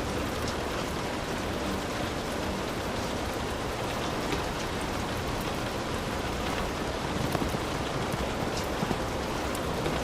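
Heavy rain falling steadily, with individual drops striking now and then.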